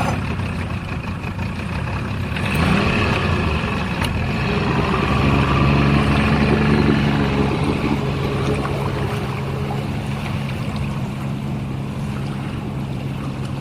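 An engine running steadily, growing louder about five seconds in and then holding at a constant pitch.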